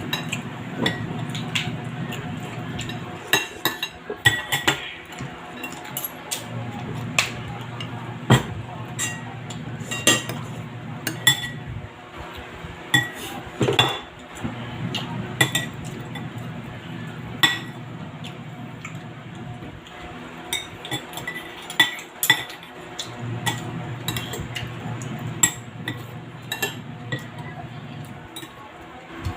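Spoons and forks clinking against plates and bowls during a meal: irregular clinks a second or so apart, some with a short metallic ring.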